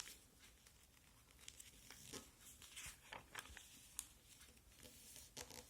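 Faint crinkling and creasing of chart paper being fan-folded by hand, a scattering of short crackles and clicks.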